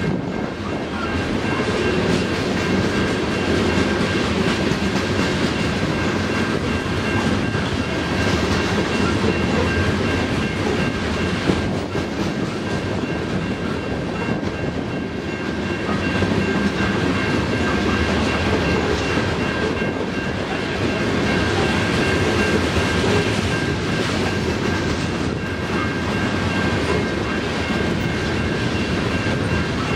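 Canadian National ore train's cars rolling past at speed, a steady loud rumble and clatter of wheels on rail, with a thin steady high-pitched ring running through it.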